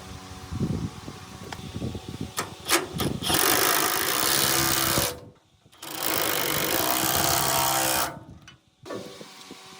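A few sharp knocks, then a workshop tool runs in two loud bursts of about two seconds each. Each burst starts and stops abruptly.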